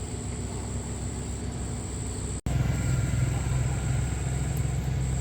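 Pickup truck engine idling steadily. The sound drops out for an instant a little before halfway, then the same idle carries on slightly louder.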